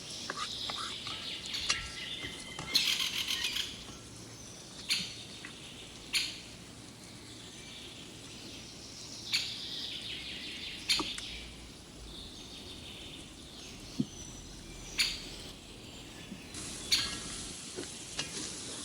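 Chicken curry sizzling in a cooking pot, with a spoon clinking against the pot a dozen or so times, including a quick rattle of knocks about three seconds in. Birds chirp in the background.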